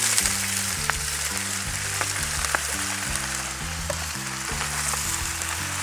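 Cut napa cabbage dropped into a hot wok of frying bacon fat, setting off a loud, steady sizzle that starts abruptly. A few light clicks of a metal spatula against the steel wok.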